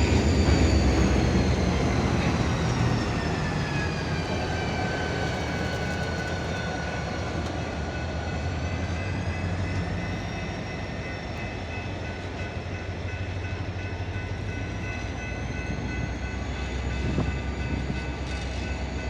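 Freight train cars rolling past, a steady low rumble of wheels on rail that gradually fades, with high thin tones above that slowly waver up and down.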